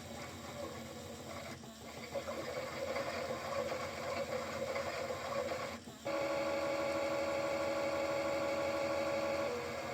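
Small electric motor of a toy Bosch washing machine running and turning the drum. About six seconds in it settles into a louder, steady whine, which dips slightly in pitch near the end.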